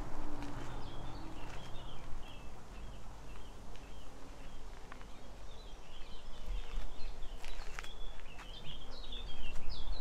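Small songbirds chirping and twittering in many short, high notes, busiest near the end, over a low steady rumble, with a few footsteps on the path.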